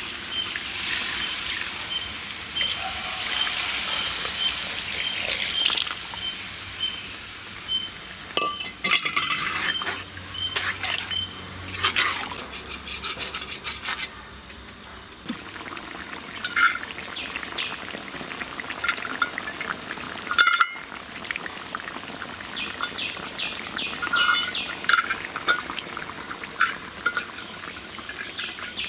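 Chicken curry in a pan hissing as the second, thin coconut milk goes in, then a ladle stirring it, with scattered clicks and scrapes against the pot.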